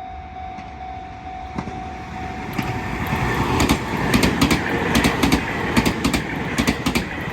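Meitetsu train coming closer, wheels clicking over rail joints in quick pairs as it grows steadily louder.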